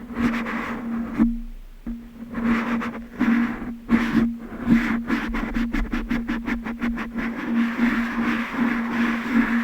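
Fingertips tapping on glass objects: scattered taps at first, then a quick even run of about six taps a second in the middle, before slower taps return. A steady low hum runs underneath, dropping out briefly early on.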